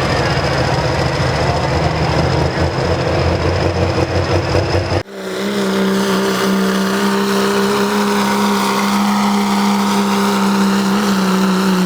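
Diesel pulling truck's engine running hard under load down the pulling track. About five seconds in the sound breaks off abruptly and gives way to a steady, even-pitched engine drone.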